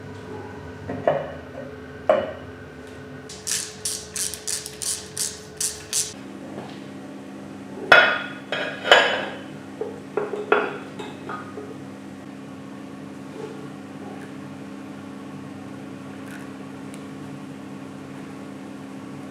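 Hand tools striking metal: two knocks, then a quick run of about eight light, bright taps, then two heavy strikes and a few lighter knocks, over a steady low hum.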